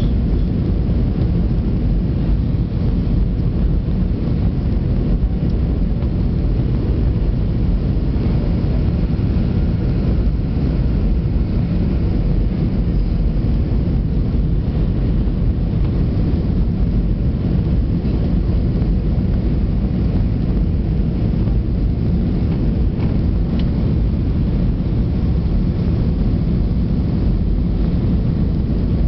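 Steady low rumble inside an Airbus A320-200's passenger cabin: engine and airflow noise, even throughout, with a faint steady hum riding on top.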